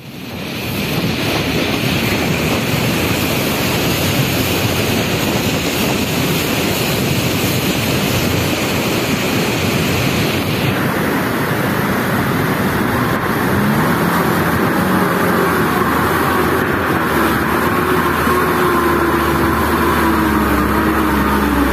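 Loud, steady rushing roar of a cold lahar flood (volcanic mudflow) pouring down the river channel. After a cut about halfway through, an engine's pitch rises and falls over the roar.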